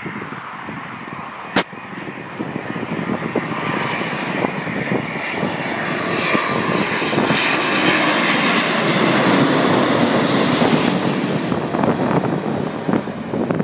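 Boeing 787 Dreamliner's jet engines passing on a low approach and go-around: a rushing jet noise that grows louder, is loudest about two-thirds of the way through, then eases off, with wind buffeting the microphone.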